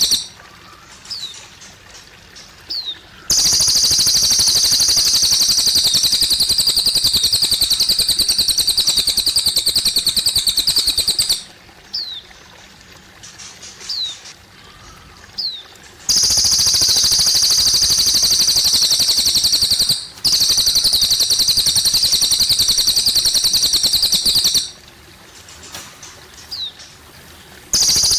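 Cililin bird singing long, loud, rapid high-pitched phrases of about eight seconds each, two of them and a third starting near the end, with short down-slurred whistles in the pauses. A faint trickle of water runs underneath.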